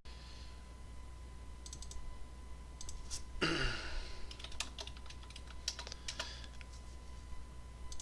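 Computer keyboard typing: scattered keystrokes and clicks, with a brief louder rustle about three and a half seconds in.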